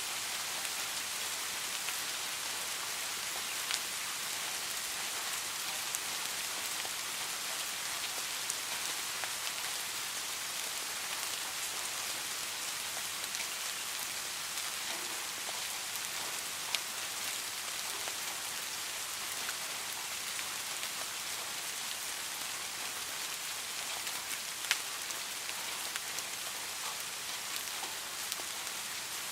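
Steady rain falling on a hard surface as an even hiss, with a few isolated sharp ticks standing out now and then.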